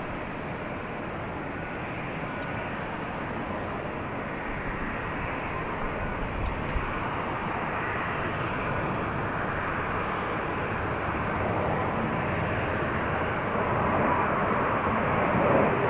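Jet airliner engines: a steady rush of noise that grows gradually louder as the aircraft approaches.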